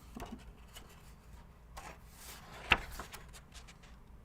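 Paper rustling and handling of a picture book as a page is turned, with one short sharp tap about two and a half seconds in.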